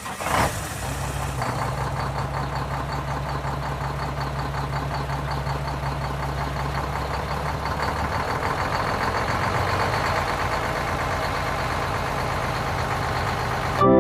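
Diesel truck engine, a Cummins in a Peterbilt 389, idling with an even, steady rumble just after starting, a short burst right at the start, swelling a little around eight to ten seconds in.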